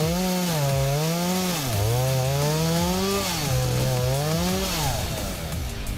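Two-stroke chainsaw engine running at high speed, its pitch rising and sagging about three times as it cuts and bogs under load, dying away about five seconds in.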